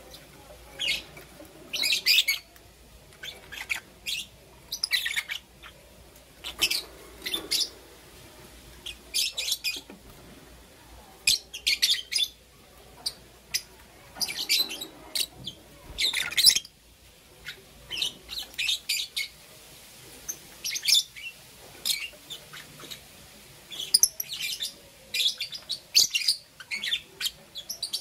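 Two green opaline lovebirds chirping: short, shrill, high-pitched chirps in quick irregular clusters, with brief pauses between bursts.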